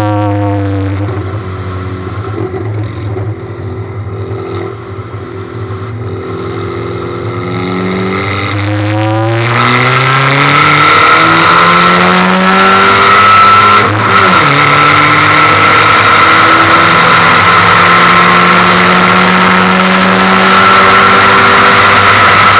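Ford Fiesta 1.6 engine blaring through a short bonnet-exit exhaust. Revs fall, hold steady for several seconds, then climb hard about nine seconds in as the sound turns much louder; the revs dip briefly about fourteen seconds in, then rise again and hold high.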